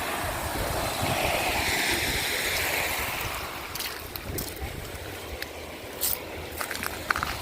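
Surf washing in on a shell beach, one wave's hiss swelling and fading over the first few seconds, over steady wind rumble on the microphone. A few short clicks come in the second half.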